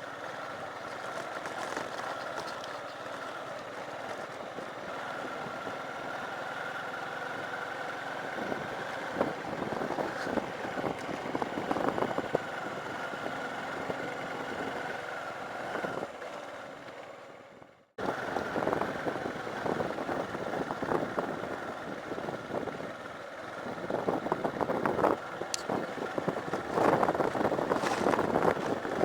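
Motorcycle engine running steadily while riding a rough dirt road, with frequent knocks and rattles from the bumps. The sound fades briefly and cuts in again abruptly about two-thirds of the way through.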